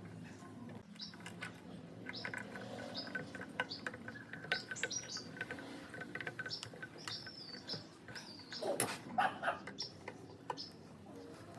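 Small birds chirping, with many short high chirps, over scattered clicks and a few louder knocks about two-thirds of the way through.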